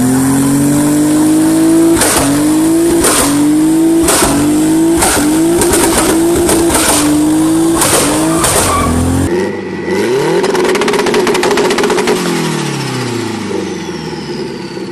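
Turbocharged car engine held at high revs, broken by a sharp bang about once a second as the revs dip and recover: anti-lag bangs. About nine seconds in, another car's engine rises in pitch, then falls steadily and fades as it drives past.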